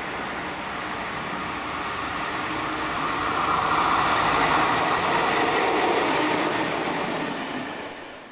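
Italian FS E.656 electric locomotive hauling a train of passenger coaches past at speed: a steady rumble of wheels on the rails that grows louder, peaks about four seconds in, then fades away near the end.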